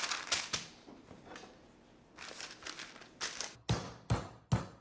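Crinkling of a wrapping around a chicken breast half, then, about three and a half seconds in, the chicken being pounded flat with steady thuds a little over two a second.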